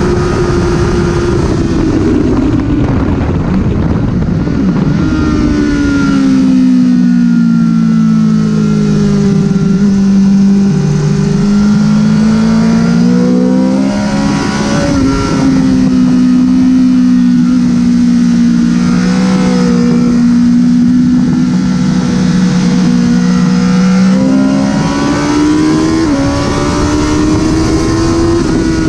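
Honda CBR1000RR's inline-four engine running hard on track: its pitch drops a few seconds in, holds nearly level through the middle with small shifts, then climbs again near the end.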